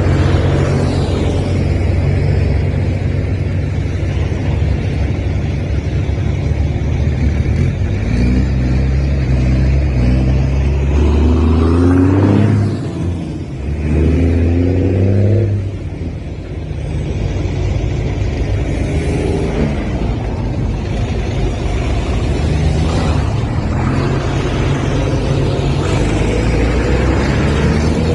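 Tractor engines running steadily, with the engine pitch rising twice near the middle as the revs build, each time dropping away briefly after.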